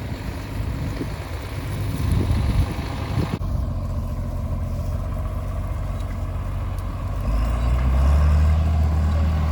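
Wind buffeting the microphone, then, after an abrupt change about three seconds in, a tractor engine running steadily, growing louder and heavier about seven seconds in.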